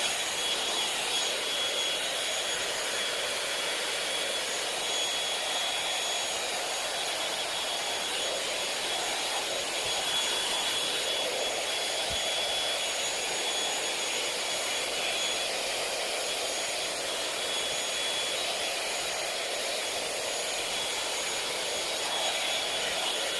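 Hot-air brush (hair dryer brush) running steadily: a constant rush of blown air with a thin, high motor whine on top.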